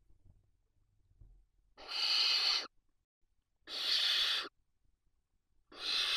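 Barn owl nestlings giving three harsh, hissing calls, each just under a second long and about two seconds apart. This is the wheezing 'snore' that barn owl chicks use to beg for food.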